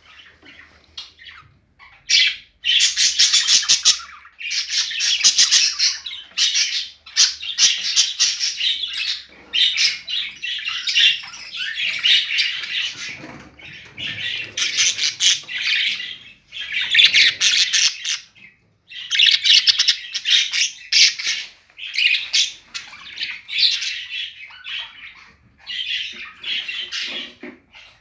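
A bird squawking over and over: harsh, rasping calls about a second or two long each, following one another with short gaps.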